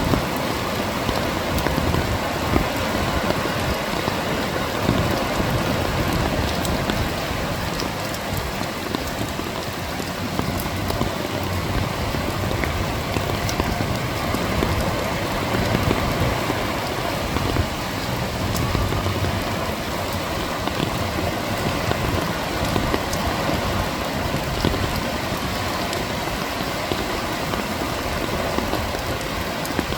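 Steady rain and waves washing under a pier: a continuous dense hiss with slow swells of surf, and scattered drops ticking.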